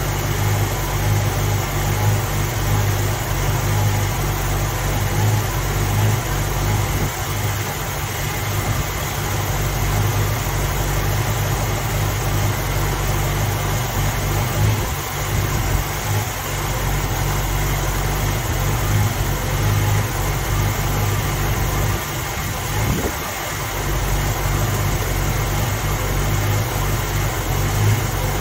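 Ford 289 V8 engine idling steadily in an open engine bay, its low even exhaust pulse unbroken.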